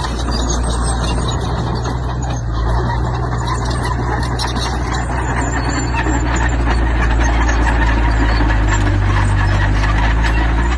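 Heavy diesel construction machinery running steadily under load, with a constant clatter of metal and stone. It gets a little louder about halfway through.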